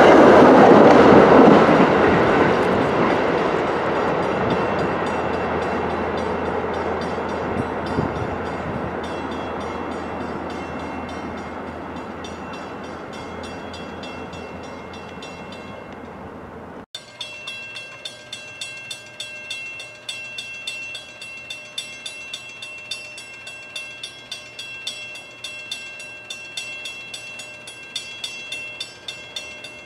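An MBTA commuter train's rumble and wheel noise fading steadily as it runs away down the line. After an abrupt cut, a railroad grade-crossing bell rings steadily, about two strikes a second.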